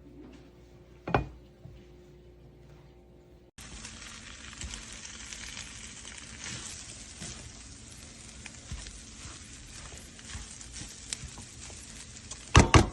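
Food sizzling and crackling on a HexClad hybrid nonstick griddle, starting suddenly about three and a half seconds in after a quiet stretch with a single sharp knock. A couple of loud knocks come near the end.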